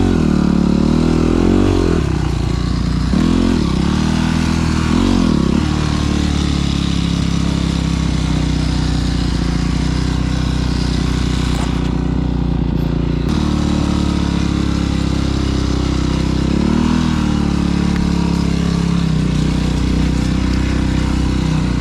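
Dirt bike engine being ridden, revving up and down several times in the first few seconds, then running at a fairly steady speed.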